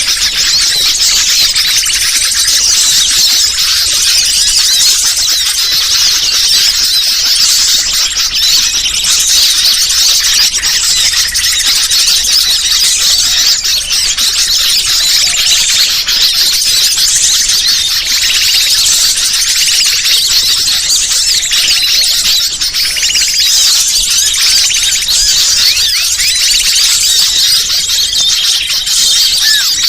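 Dense, continuous high-pitched chorus of many small birds chirping and twittering at once: a bird-lure (pikat) recording used to call wild birds in.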